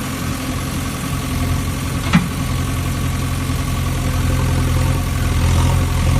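Small DC motor running with a steady hum, and a single sharp click about two seconds in.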